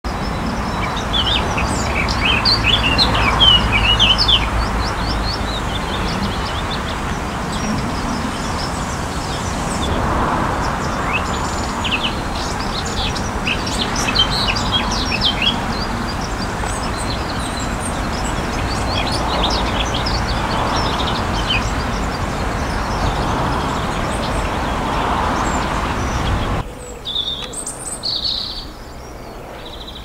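Wild birds singing outdoors, many quick chirps and short trills overlapping, over a steady rushing background noise. About 27 s in the sound cuts to a quieter scene with only a few scattered calls.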